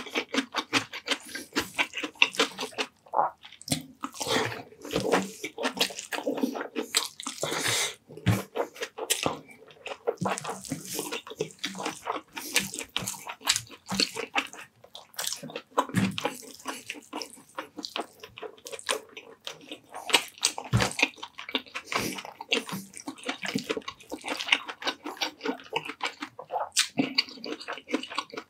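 Close-miked wet chewing, smacking and slurping of a person eating pork in a creamy coconut-milk sauce with rice, as a steady stream of irregular clicks and wet mouth noises.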